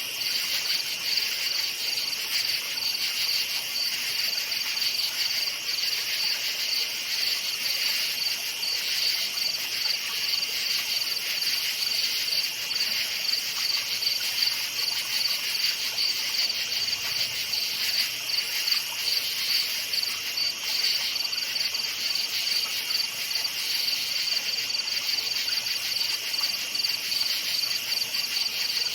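Crickets chirping in a dense, steady chorus: a high, rapidly pulsing trill with a second, slightly lower layer of chirping beneath it.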